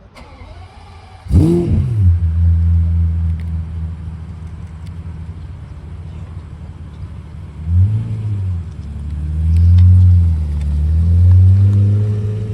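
Pagani Zonda HP Barchetta's 7.3-litre AMG V12 starting up: a short falling whir, then the engine catches about a second in with a sharp flare of revs and settles to a steady idle. Near the end it is blipped up and down three times.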